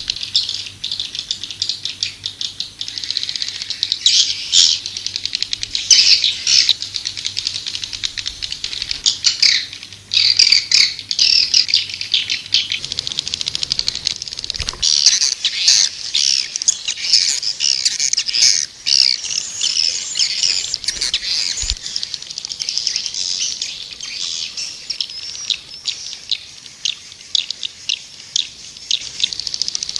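Swiftlets twittering: a dense, continuous chatter of rapid high chirps from many birds, the kind of swiftlet call recording played to lure the birds into a nesting house.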